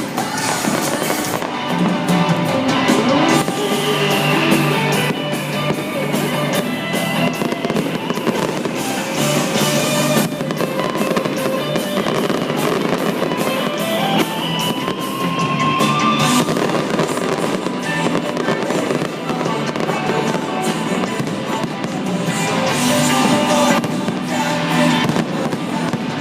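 Fireworks bursting and crackling in quick succession over loud music with a steady beat.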